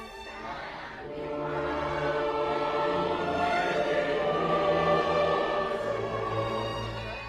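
Choir singing sustained chords over music with low held notes.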